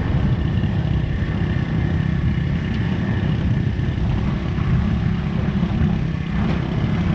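Motorbike riding along, with its engine and road noise under a steady rumble of wind on the microphone.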